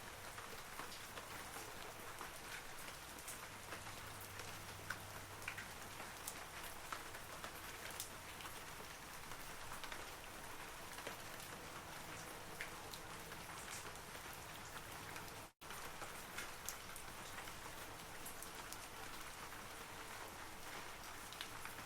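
Steady rain falling on forest trees: an even hiss of rainfall, sprinkled with many small, sharp ticks of single drops hitting the leaves. About two-thirds of the way through, the sound cuts out for an instant and then carries on.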